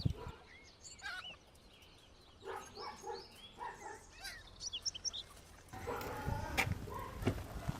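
Farmyard fowl calling, a quick run of short gobbling calls in the middle, with small high bird chirps. In the last two seconds a louder rustling noise with a few sharp knocks comes in.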